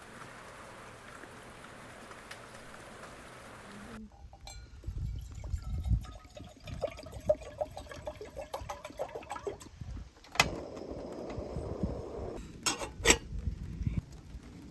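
Steady rain falling, then, after about four seconds, clinks and knocks of metal camping cookware being handled and liquid sounds as water is set to boil, with a few sharp, louder knocks near the end.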